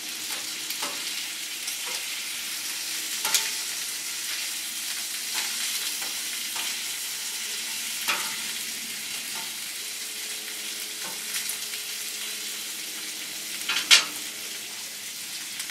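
Chicken wings, mango and peppers sizzling steadily on a hot griddle, with a few sharp clicks and knocks of cooking tools, the loudest near the end.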